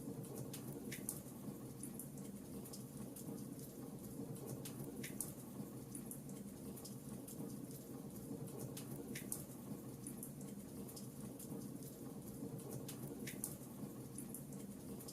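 Fireplace crackling: a steady low rumble of flames with many small pops and snaps, and a sharper pop about every four seconds.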